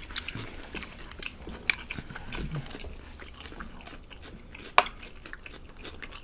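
Close-miked eating sounds: chewing and biting food, with scattered sharp clicks and crunches. The sharpest click comes about three-quarters of the way through.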